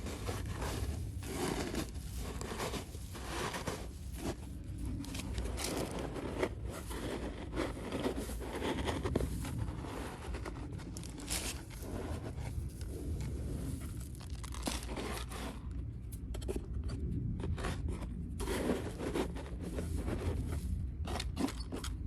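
Bird seed rustling, crunching and scraping as it is poured and worked into a wooden feeder box, an irregular run of crackly strokes throughout.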